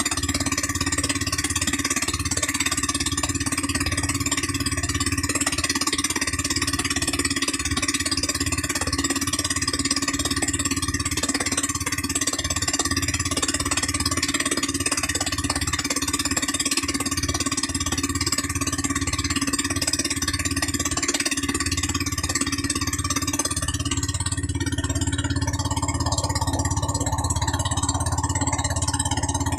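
A 13 HP gasoline engine running steadily at a constant speed. Its tone shifts slightly about 24 seconds in.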